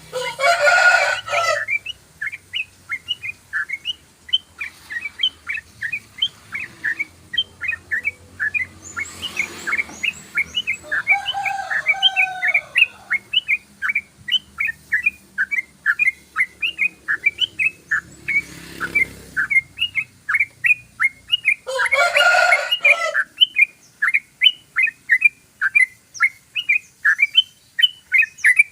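Yellow-vented bulbul (trucukan) singing a long rapid 'ropel' song: short, high chirps repeated about three times a second without a break. Twice, at the start and about three-quarters through, a louder, longer call of a second or so breaks in over them.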